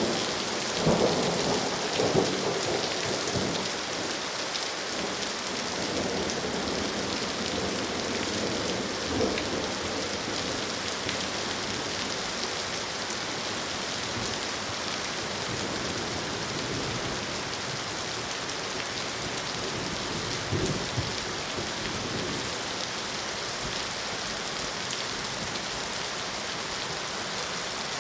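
Steady rain falling, an even hiss of drops. A few short, louder low bursts stand out over it near the start, again about 9 seconds in and about 20 seconds in.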